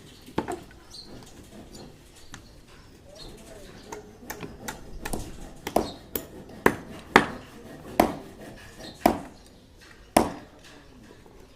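Sharp strikes of a hand tool on hard material, each with a short ring: a few weak ones, then about six strong blows roughly a second apart in the second half.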